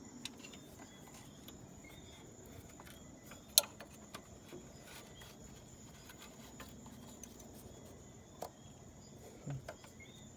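Insects chirping steadily and faintly at a high pitch, with a few sharp clicks, the loudest about three and a half seconds in and two smaller ones near the end.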